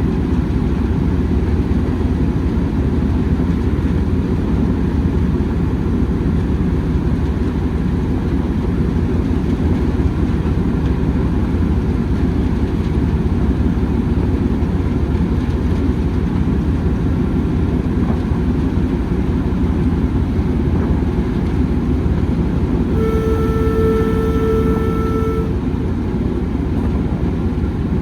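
Heritage railway train running with a steady low rumble. A locomotive horn or whistle sounds once, a single steady note lasting about two and a half seconds, near the end.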